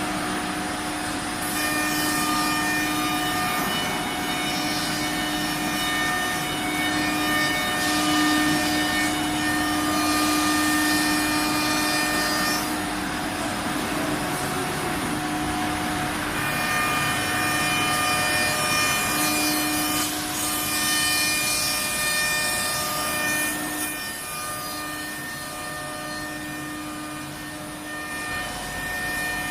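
Sawmill saw machine (aara machine) running and cutting wood. A steady whine of several held tones sits over a rough cutting hiss, and the tones drop out for a couple of seconds midway.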